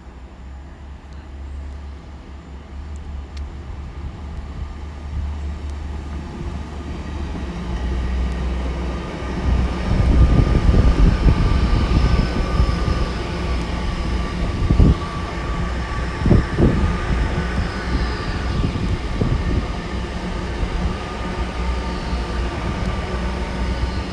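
A Class 802 bi-mode intercity train running through the station without stopping, on its underfloor diesel engines. The engine drone and rail rumble build up to a peak about ten seconds in, with a few sharp wheel thumps over rail joints in the middle as the coaches pass.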